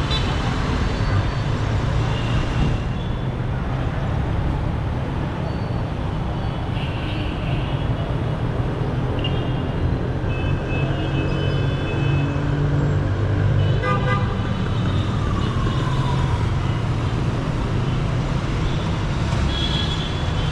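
Busy city street traffic: a steady drone of car, bus and motorbike engines with car horns honking in short toots several times.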